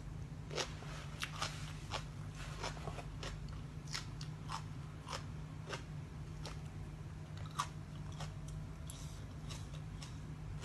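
Crisp food being bitten and chewed close to the microphone: irregular sharp crunches, about one or two a second, over a steady low hum.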